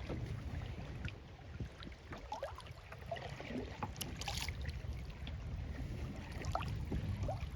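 Water dripping and lapping around a kayak, with small plinks throughout and a brief splash about four seconds in, over a low wind rumble on the microphone.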